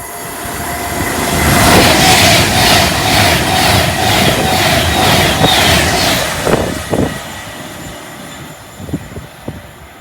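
A train passing at speed: the rush of the train builds over the first couple of seconds and holds, with a regular beat of wheels at about two to three a second and a steady whine, then dies away after about six seconds.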